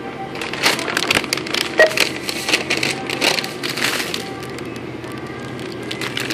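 Grocery self-checkout scanner giving a short beep about two seconds in, amid crinkling and crackling of plastic packaging being handled, over background music.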